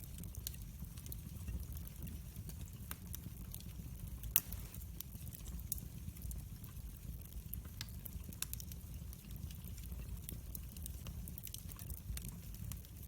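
Wood fire in a fireplace crackling, with scattered sharp snaps over a low steady rumble and one louder pop about four seconds in.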